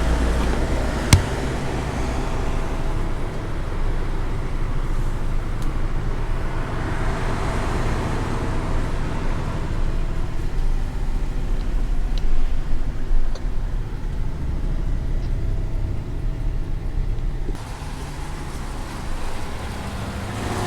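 Petrol flowing from a fuel-pump nozzle into a car's tank, a steady rushing hiss over a low traffic rumble, with a sharp click about a second in. The flow is held to a slow rate because a faster one makes the nozzle click off. The rush stops near the end as the tank reaches full.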